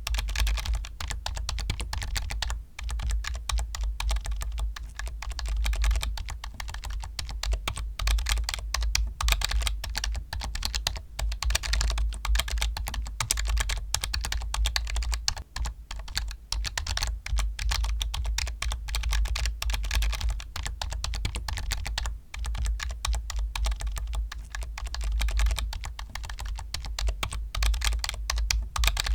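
Computer keyboard typed on continuously and fast: a dense stream of key clicks with a steady low rumble beneath, broken only by a few short pauses.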